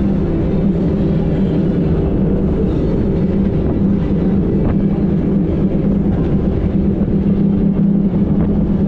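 A 90 hp Evinrude outboard motor running steadily under way, a constant pitched hum over rough low rumble, with a few faint brief knocks.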